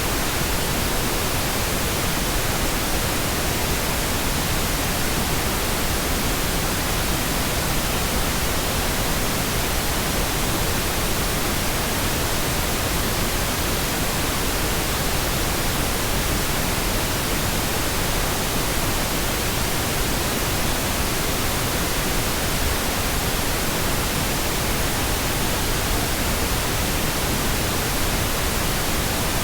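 Steady, unbroken pink noise: an even hiss spread across the whole range, unchanging throughout.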